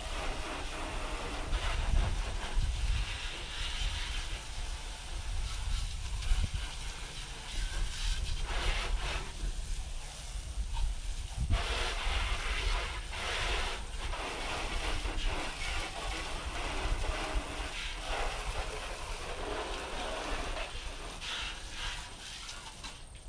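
Pressure washer spray hissing against the truck, swelling and fading in stretches as the wand moves, with wind rumbling on the microphone.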